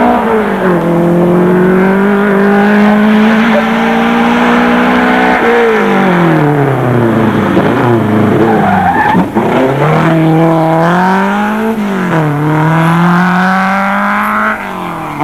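Rally car engine at high revs: it holds a steady high note, drops sharply in pitch around the middle as the throttle is lifted, then climbs twice more with a drop between, like upshifts, before the level falls suddenly near the end.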